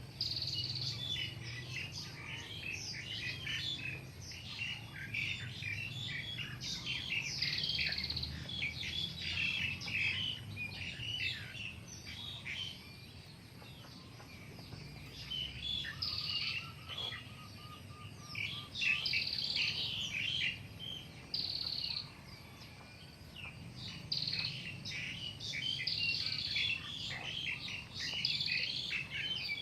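Many small birds chirping at once in a dense, continuous chatter of short high calls, over a steady low hum.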